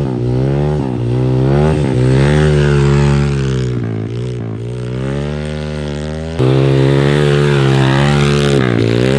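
Pitbike's engine (MRF 140 TTR, 140 cc four-stroke single) running under a rider, its revs rising and falling again and again as the throttle is opened and closed through the turns. It gets suddenly louder about six seconds in.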